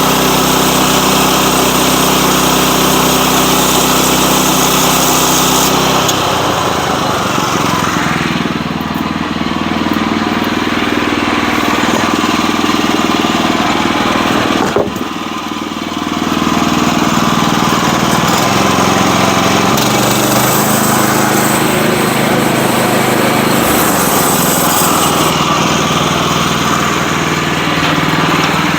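Sawmill's gas engine running loud and steady while the mill saws a log. Its note changes about six seconds in, and the level dips briefly around fifteen seconds.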